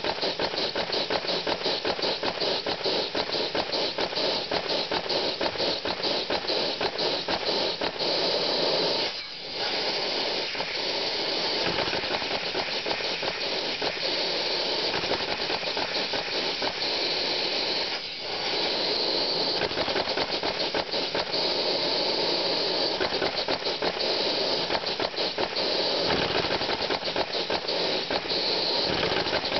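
Vacuum-powered Lego piston engine running, its plastic piston, valves and flywheel clattering rapidly over a steady rush of air, with two brief dips about 9 and 18 seconds in.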